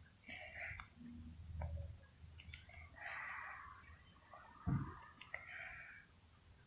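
Steady high-pitched insect chorus, with a few bird calls in the middle range and a short low thump near the end.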